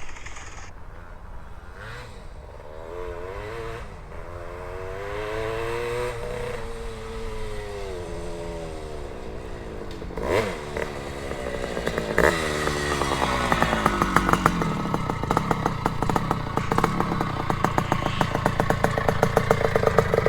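1973 Penton/KTM Berkshire 100's single-cylinder two-stroke engine, ridden with its pitch rising and falling, then much louder and closer from about twelve seconds in, running with a rapid, even crackle.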